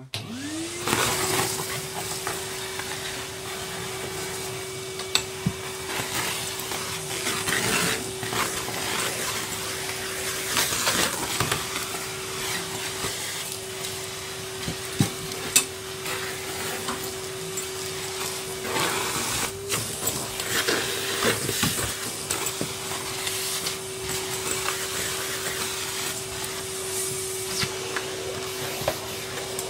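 Numatic Henry cylinder vacuum cleaner switched on, its motor running up to speed in about a second and then running steadily, with rustling, clicks and clatter as packing paper and dirt are sucked up.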